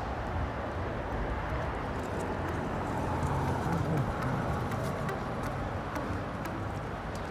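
Sandstorm wind buffeting the microphone: a steady low rumble under an even rush of noise, with faint ticks.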